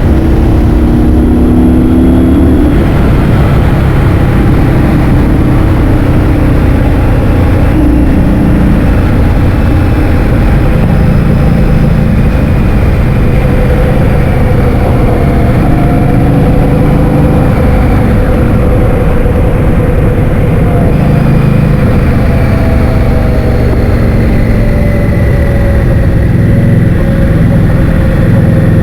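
Heavy wind buffeting the microphone during a scooter ride, with the scooter's motor tone drifting slowly up and down beneath it.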